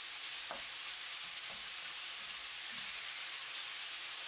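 Ground beef sizzling steadily in hot oil in a non-stick frying pan, with a few scrapes of the spatula against the pan as the meat is stirred and broken up.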